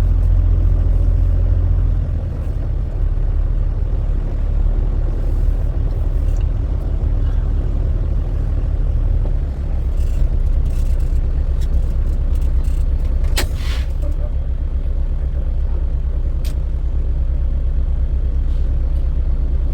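Semi truck's engine running with a steady low rumble, and a short hiss about thirteen seconds in.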